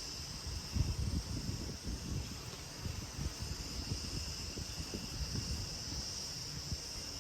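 Steady, high-pitched insect chorus, with an irregular low rumble underneath that is strongest about a second in.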